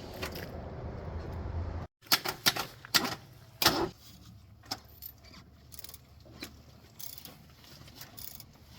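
Fox Body Mustang engine, running on dish soap in place of oil and coolant, holds a steady low hum and then cuts off abruptly just before two seconds in. A series of sharp clicks and knocks follows, several close together at first and then sparse and faint.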